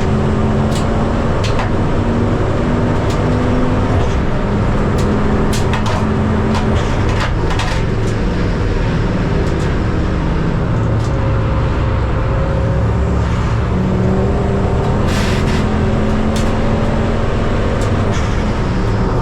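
Racing car engine running steadily, its note shifting a little in pitch every few seconds, with scattered short clicks.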